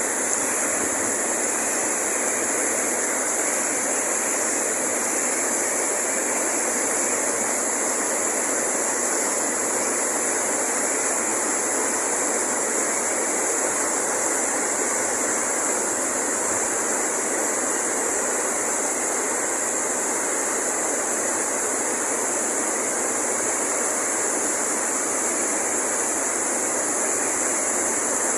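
Waterfall with a heavy flow of rushing water, a constant even rush with a steady high-pitched hiss above it.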